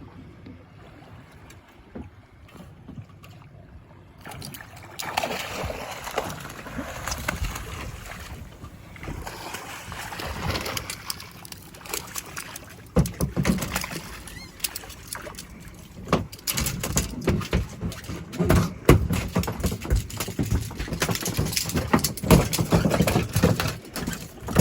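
Water splashing and sloshing against a small fishing boat, with many short knocks and thumps. It starts quiet, gets busier about four seconds in, and grows louder and choppier in the second half.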